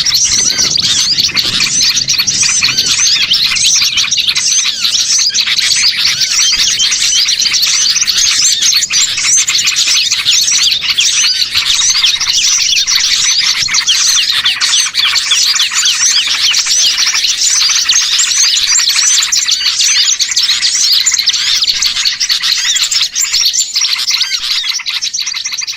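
A dense chorus of many small songbirds chirping and twittering at once, call over call with no gaps: a bird-lure call recording made to draw small wild birds in. It begins to fade near the end.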